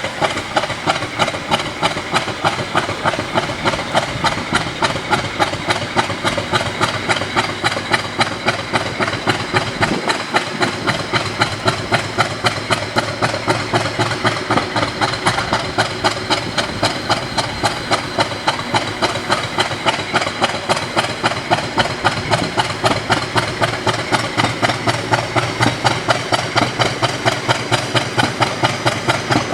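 British Rail Class 50 locomotive's English Electric 16CSVT sixteen-cylinder diesel engine running at idle, with an even, regular beat and an exhaust hiss.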